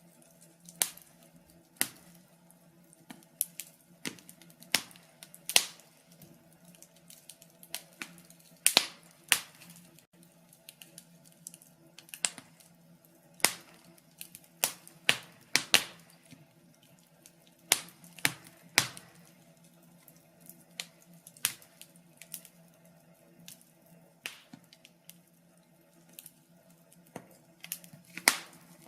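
Wood fire crackling: irregular sharp pops and snaps, a few a second and varying in strength, with the loudest ones clustered around the middle. A faint steady low hum runs underneath.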